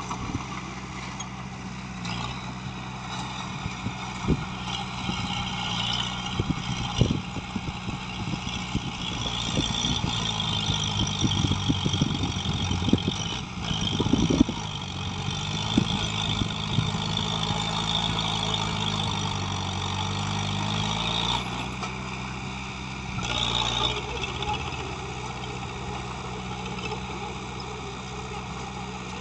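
Heavy diesel engine of construction equipment running, working harder for about ten seconds in the middle and easing back near the end, with a few sharp knocks along the way.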